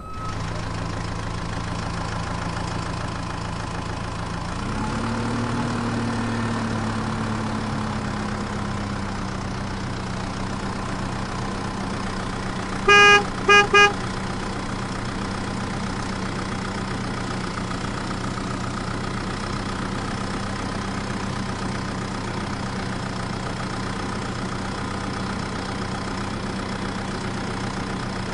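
Motor vehicle engine idling steadily, revving up briefly about five seconds in. About halfway through, a horn gives a quick burst of short honks.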